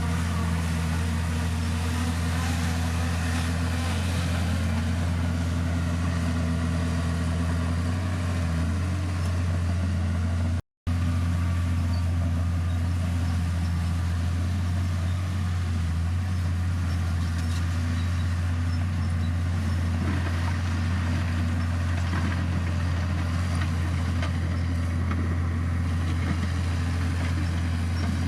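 Heavy earthmoving machine's diesel engine running steadily under work, its pitch dipping briefly a few times. The sound cuts out completely for a moment about a third of the way in.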